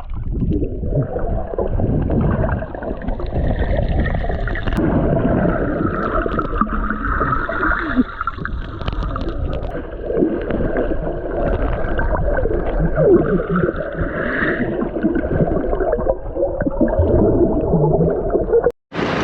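Muffled underwater sound picked up by a GoPro in its waterproof housing under the sea: water gurgling and bubbling around the camera, dull with no high end. It cuts off suddenly near the end.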